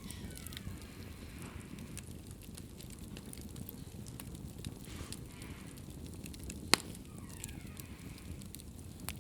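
Wood fire crackling in a fireplace: a steady low rumble of flames with scattered small crackles, and one sharp, loud pop a little under seven seconds in.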